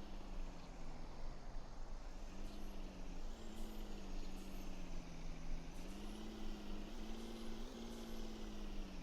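Truck engine running, its pitch rising and falling several times as it revs, over a steady background rumble.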